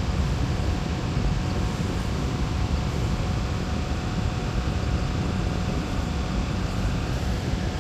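A fan running steadily, a constant rushing hum heaviest in the low end, with a faint steady tone above it.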